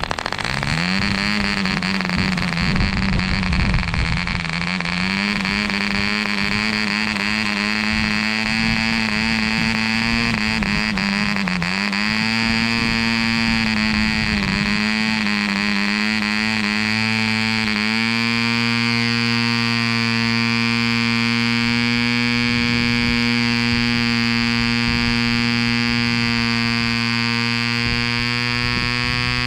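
Mills .75 cc model diesel engine running with an 8x4 propeller, a high steady buzz. Its speed climbs just as it catches, wanders up and down for the first two-thirds, then settles into an even, slightly faster run.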